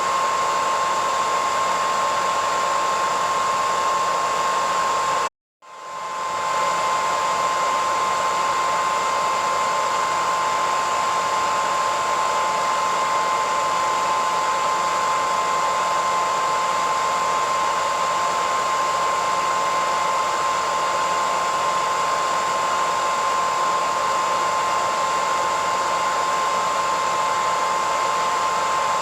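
Hair dryer running steadily, an even rushing hiss with a steady whine near 1 kHz. About five seconds in it cuts out to silence for about half a second, then quickly comes back up to full level.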